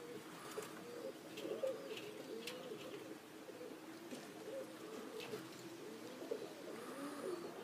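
Several domestic pigeons cooing softly at once, their low wavering coos overlapping continuously.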